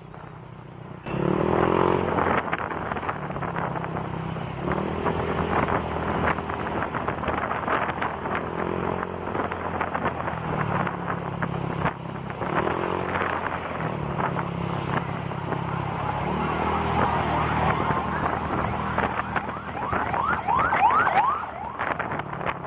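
Honda Click scooter with an aftermarket exhaust pipe under way: its single-cylinder engine runs with wind and road noise, and its pitch rises again and again as it pulls away and picks up speed.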